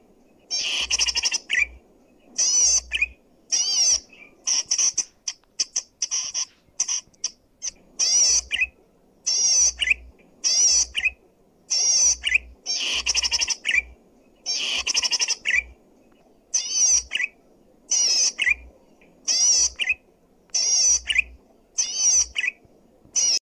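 Zitting cisticola (cici padi) singing loudly and continuously: short bursts of rapid, high, buzzy chattering trills, about one a second, with brief pauses between them.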